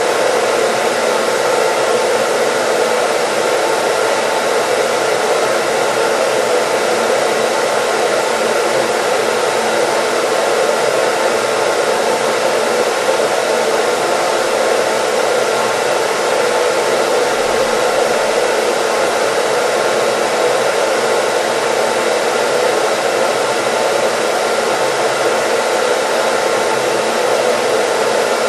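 Hair dryer running steadily: a continuous, even rushing whoosh with a faint steady hum in it, unchanging throughout.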